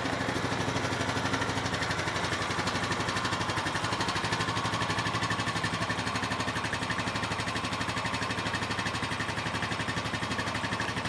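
2007 Honda TRX420 ATV's single-cylinder four-stroke engine idling steadily, with an even, rapid pulse.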